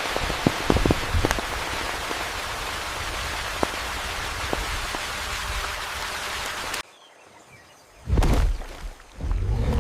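Steady hiss of falling rain with scattered sharp drop clicks, which cuts off suddenly about seven seconds in. About a second later come loud, low rumbling surges, like water or wind.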